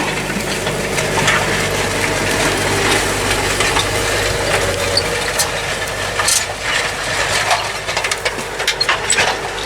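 Tractor engine running steadily as it pulls a plough through the field, fading after about halfway while clanks and rattles of the plough and soil come to the fore.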